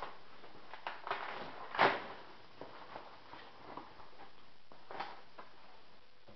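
Rustling and light knocks of packaging and model airplane parts being handled, a handful of short noisy scrapes, with the loudest about two seconds in.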